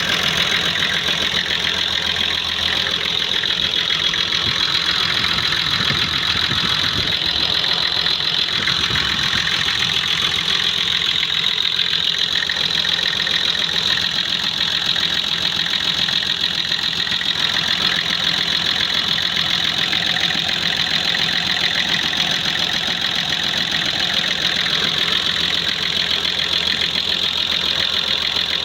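Nissan engine idling steadily, with an even running sound throughout.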